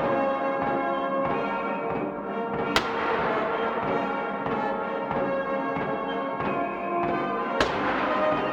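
Military band playing ceremonial honors music with long held notes, broken twice by a sharp, sudden crack about five seconds apart.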